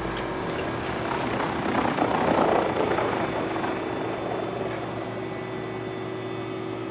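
Heat-pump air conditioning of a Mitsubishi Outlander PHEV running, switched on remotely with the car parked: a fairly loud steady hum with a constant tone from the compressor and fan. A louder rushing swell builds and fades about two to three seconds in.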